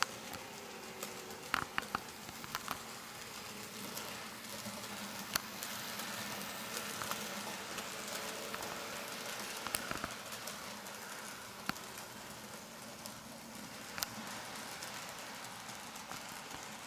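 N scale model train running on track: a steady light rolling hiss with sharp clicks at irregular intervals from the wheels and track.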